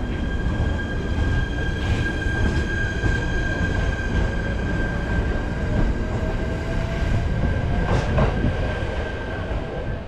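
Shinano Railway SR1 series electric train pulling out of a station platform: a steady rumble of the cars and wheels with a thin steady high tone, and a fainter whine rising slowly in pitch in the second half as the train gathers speed. A sharp clack sounds about eight seconds in.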